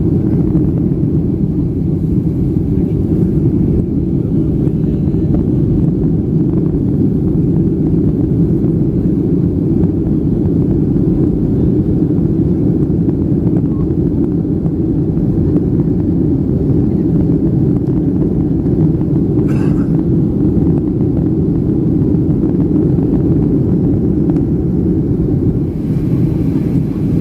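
Steady cabin noise heard from inside a Boeing 757-300 airliner in flight: an even, deep roar of its engines and the airflow.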